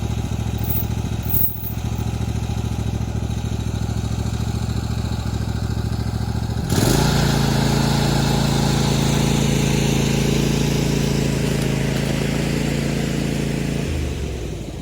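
Cub Cadet lawn tractor engine running steadily. About halfway through it suddenly rises to a higher, louder pitch and holds there, then drops back near the end.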